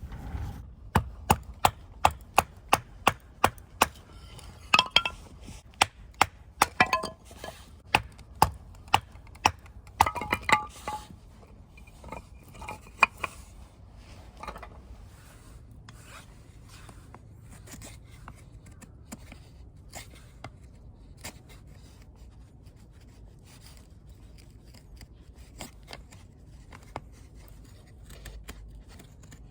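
Sharp wooden knocks and cracks, about two a second for the first ten seconds, then fewer and quieter: firewood being prepared for a campfire.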